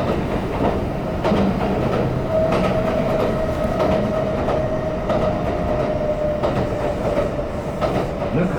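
Electric train running, heard from inside the car: a steady rumble with clicks from the rail joints and a steady whine that drops slightly in pitch as the train slows for a station.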